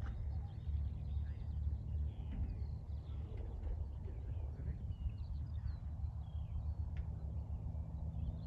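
Small birds chirping and trilling in short, scattered calls, over a steady low rumble.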